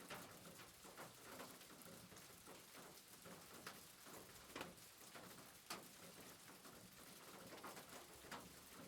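Faint soft rain: a steady hiss of rainfall with scattered drip-like ticks, about one a second.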